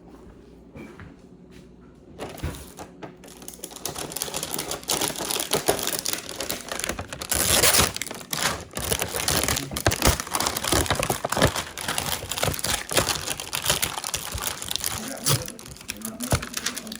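Crinkling and rustling of something being handled, starting about two seconds in and going on with many small crackles and a few sharp knocks.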